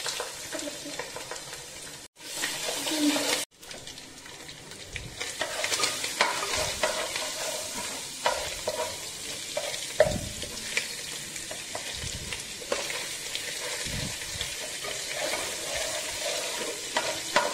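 Ginger-garlic paste sizzling as it fries in hot oil in a nonstick pan, stirred with a steel spoon that scrapes and knocks against the pan now and then. The sound drops out briefly twice in the first few seconds.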